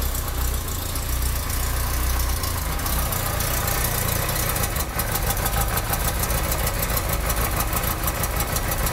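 Yamaha XJ600 Diversion's air-cooled four-cylinder engine running steadily through a new aftermarket exhaust, its low note stepping up a little about three seconds in, recorded through a phone's microphone.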